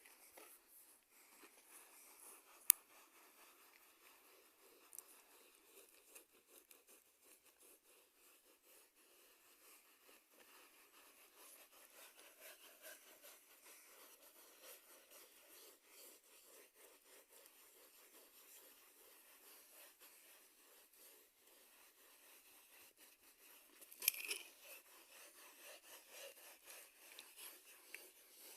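Faint scraping and rubbing, with a sharp click about three seconds in and a louder, brief scrape about 24 seconds in.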